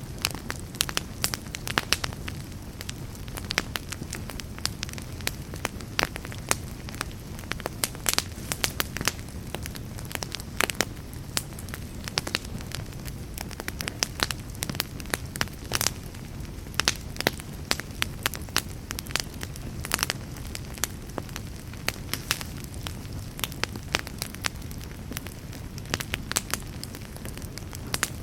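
Wood fire of burning logs crackling, with many irregular sharp pops and snaps several times a second over a steady low rumble of the flames.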